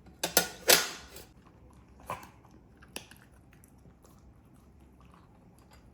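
Miniature schnauzer eating dry food: a few loud crunching bursts in the first second, two more about two and three seconds in, then faint chewing.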